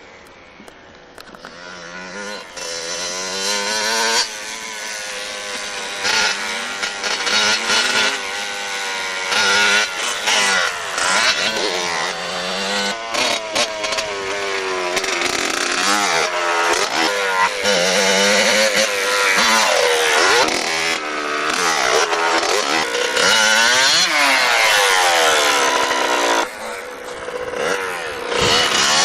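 Motorcycle engines revving, their pitch repeatedly climbing and dropping as they accelerate and change gear. Faint for the first couple of seconds, then louder.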